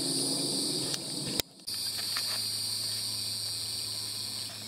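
A steady chorus of insects, a continuous high buzz at two pitches, with a click and a brief gap about a second and a half in.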